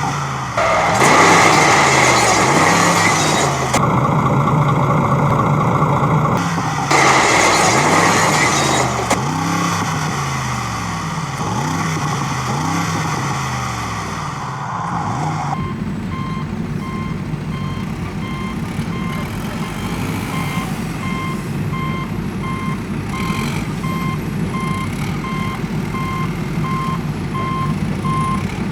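A vehicle's reversing alarm beeping at an even pace of about one beep a second, over a low vehicle rumble. It starts about halfway through, after a wavering engine drone with two loud rushing bursts.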